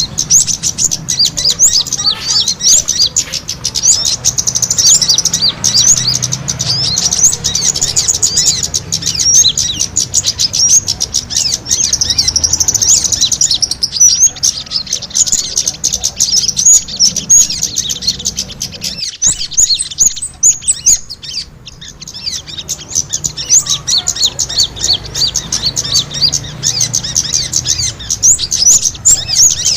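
Dense, rapid high-pitched chirping of many small birds at once, the agitated calls of small birds fighting, used as a lure call for bird trapping. The chirping thins briefly about two-thirds of the way through, then picks up again.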